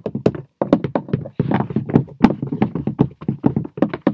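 A rapid, uneven run of light taps and knocks, several a second, from clay figures being hopped and set down on the hard floor of a tabletop model set.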